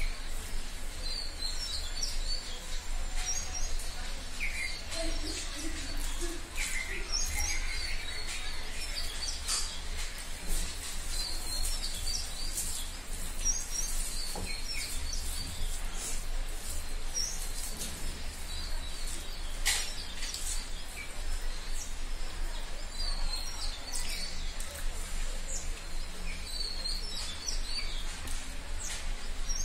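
Small birds chirping in short, repeated high calls throughout, over a steady low hum.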